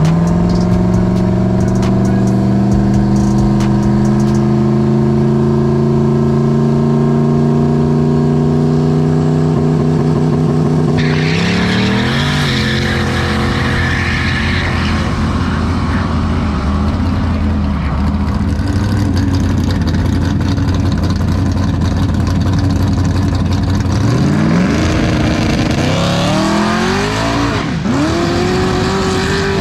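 Race car engine running hard under acceleration, its pitch climbing steadily for about ten seconds. A sudden rush of hissing noise joins in, followed by further revs rising and falling near the end.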